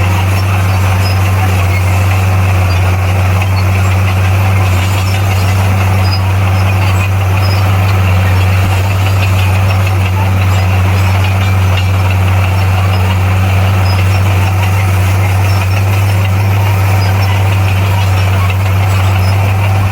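Bulldozer's diesel engine running steadily under load, a loud, constant low drone with no change in pitch.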